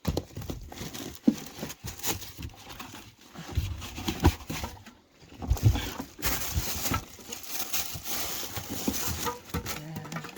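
Small plastic toys and accessories being handled and set down: irregular knocks and clicks with bursts of rustling.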